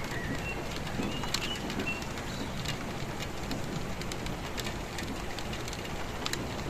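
Steady rainfall with individual drops ticking sharply on a hard surface. A bird chirps briefly near the start and again about a second and a half in.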